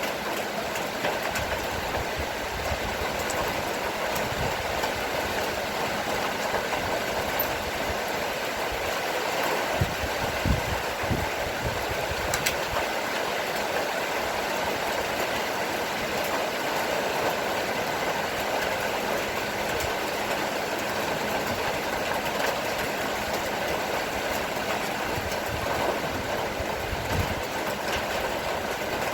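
Steady rain shower falling, an even continuous hiss, with a few low thumps about ten seconds in.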